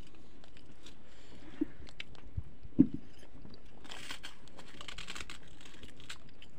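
Close-up chewing and mouth clicks of a person eating rice and fish curry by hand, with fingers working the food on a steel plate. There is a single sharp thump a little under three seconds in, and a rustling hiss from about four to five and a half seconds in.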